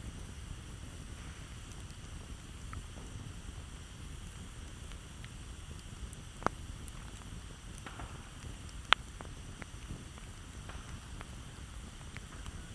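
Campfire crackling: scattered small ticks over a low steady rumble, with two sharp pops about six and a half and nine seconds in, the second the louder.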